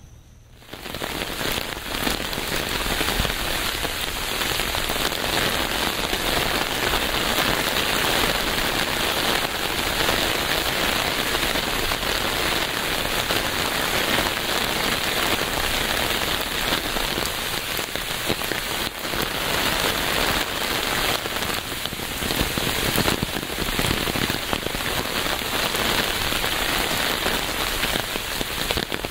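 Steady rain, a dense hiss of falling drops with many small drop impacts, rising quickly from quiet in the first second or two and then holding even.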